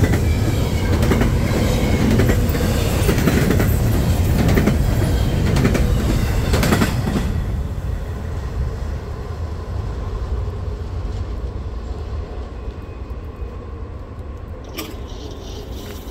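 Freight train rolling past, its wheels clacking over the rail joints. The sound drops off about seven seconds in and stays quieter after that.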